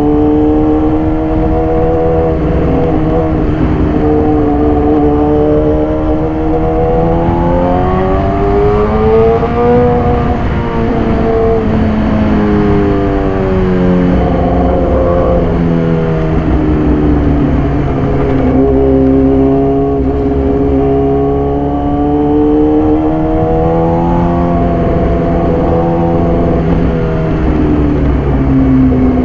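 Yamaha YZF-R6 inline-four engine running through an SC-Project exhaust while the bike is ridden. The revs climb and fall away several times as the bike accelerates and eases off.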